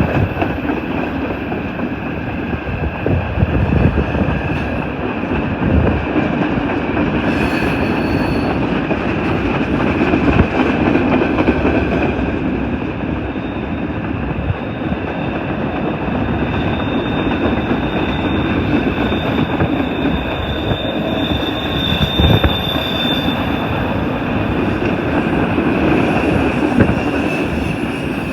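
Empty coal train's cars rolling past, the wheels rumbling and clacking on the rails with a steady high-pitched wheel squeal. A second, higher squeal joins about halfway through and fades a few seconds before the end.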